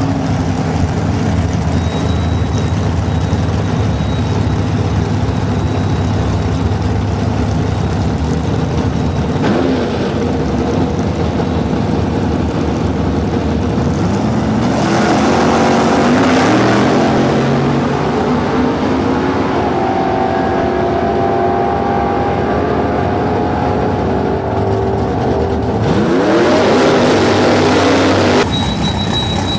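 V8 drag car engine running at a steady idle, then revved. Its note climbs about ten seconds in and again more strongly around fifteen seconds, and holds higher. It dips and climbs once more near the end before cutting off abruptly.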